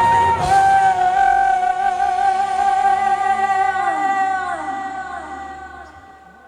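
Live pop music: a female singer holds one long high note over the backing track, then the note falls away and the sound dies out over the last couple of seconds.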